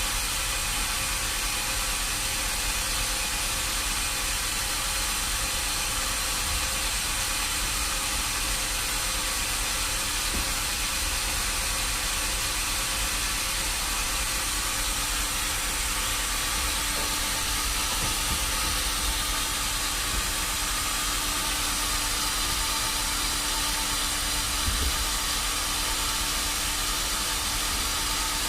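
Machinery running steadily with a constant hiss and a low, even hum, and a few light knocks.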